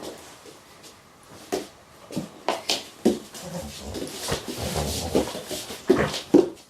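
Pet dog making a string of short grumbling, whining vocal sounds, with a breathy, hissing stretch in the middle.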